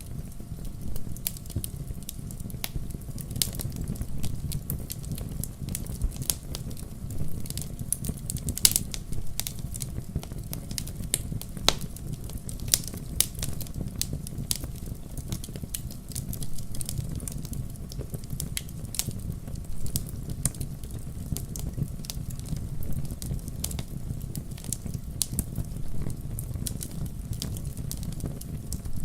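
Wood fire burning in a fireplace: a steady low rumble of flames with irregular sharp crackles and pops from the burning wood, one louder pop about nine seconds in.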